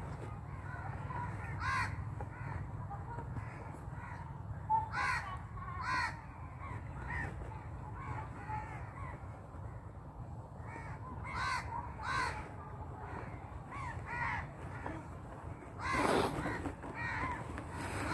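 Birds cawing on and off, a dozen or so short calls spread through, over a steady low rumble. A louder, noisier burst comes near the end.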